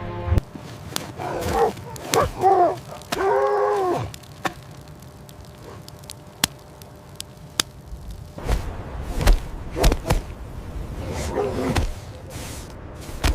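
A dog whining in several short cries that bend in pitch, with sharp knocks and low thuds in between.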